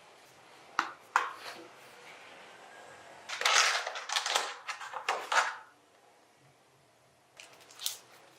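Small workbench handling noises from work on a die-cast model car: two sharp clicks, then a couple of seconds of scraping and rattling, and a few light clicks near the end.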